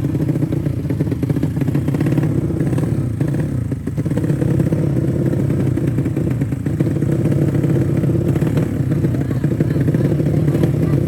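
Drag-race underbone motorcycle engines running steadily, with no clear revving.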